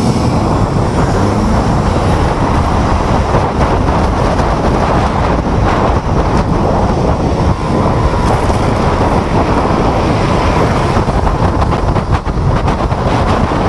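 Wind buffeting the microphone on a moving electric scooter, a loud, steady rumble mixed with road noise.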